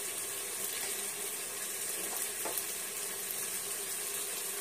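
Diced potatoes, tomatoes and onions sizzling steadily in hot oil in a pressure cooker pan.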